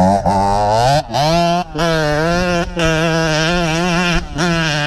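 Dirt bike engine under throttle: its pitch climbs over the first second, then holds steady, with short breaks in the note about four times as the throttle is rolled off and back on.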